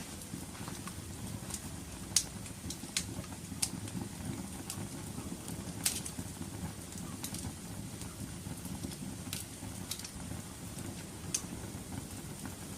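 Wood fire crackling in a fireplace: a low steady rumble of burning with irregular sharp pops, the loudest about two seconds in and again near six seconds.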